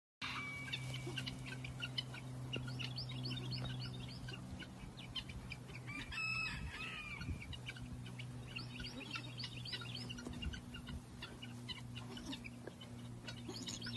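A group of chicks peeping in many rapid short chirps over a steady low hum, with one louder, drawn-out call about six seconds in.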